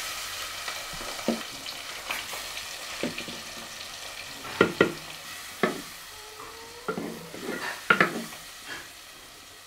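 Marinated chicken frying in hot coconut oil in a pot, a steady sizzle that is loudest at the start and eases off. A spoon stirs it, knocking against the pot several times.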